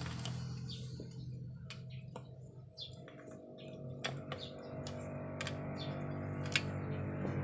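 Scattered light clicks and taps of small metal engine parts being handled, over the hum of a motor vehicle engine that fades and then grows again toward the end.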